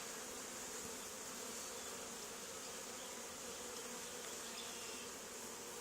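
Honey bee swarm buzzing: a steady, even hum of many bees.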